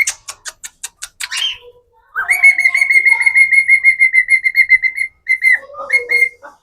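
White cockatiel whistling: a quick string of sharp chirps, then a long fluttering whistle held on one pitch for about three seconds, then a few short whistled notes near the end.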